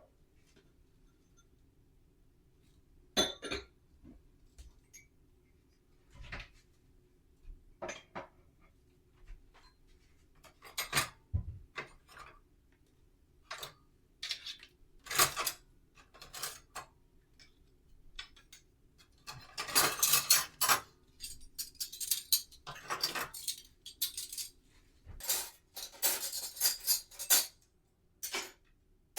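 Kitchen clatter of dishes, pans and cutlery being handled during breakfast preparation: scattered single knocks and clinks, with two busier stretches of clattering in the second half, over a faint steady hum.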